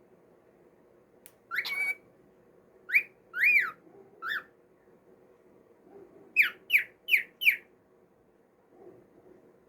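Cockatiel whistling: a few short whistled notes, one rising and falling in an arch, then a quick run of four falling notes about two-thirds of the way in.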